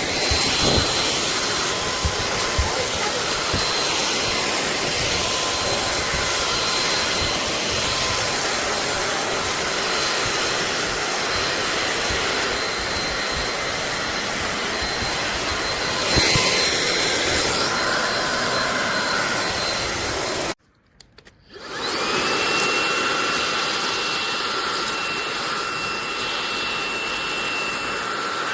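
SunSare X11 cordless stick vacuum running with a steady suction noise and a motor whine. About 20 seconds in it shuts off abruptly, and a second later it spins back up with a short rising whine. It then runs steadily again at a different pitch.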